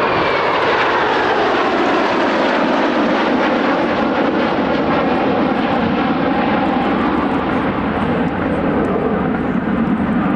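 Jet aircraft flying past at an air display: a loud, steady engine roar, with a whine that falls in pitch over the first few seconds as it passes.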